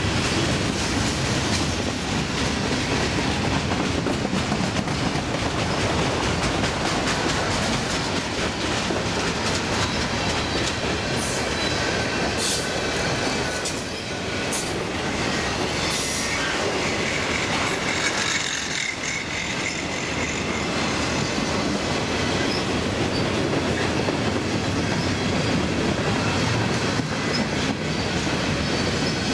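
Cars of a long freight train rolling past close by, with steady wheel-on-rail noise. Several brief high-pitched wheel squeals come between about 11 and 18 seconds in.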